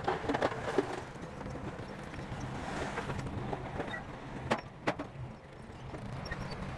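Heavy earthmoving machine running with a steady, noisy rumble, with two sharp knocks close together about four and a half seconds in.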